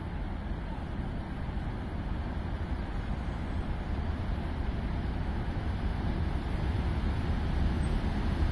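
Rumble of a VL80T electric locomotive and its freight train approaching, growing steadily louder, with wind buffeting the microphone.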